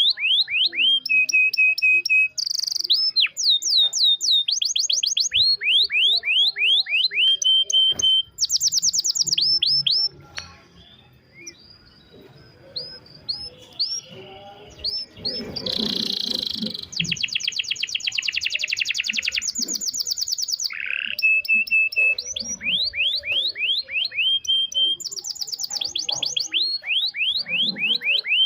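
Domestic canary singing in the slow, rich nglemak style: long tours of quickly repeated sweeping notes, broken now and then by a short held note. About ten seconds in the song drops to a quieter, sparser stretch for a few seconds, then the fast trills start again.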